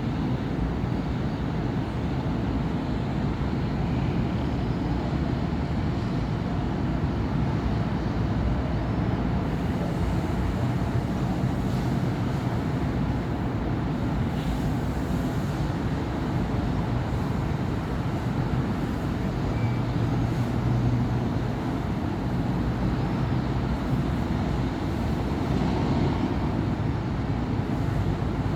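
Steady city street traffic: a constant rumble of car engines and tyres on the avenue, with a deeper engine hum swelling briefly about twenty seconds in.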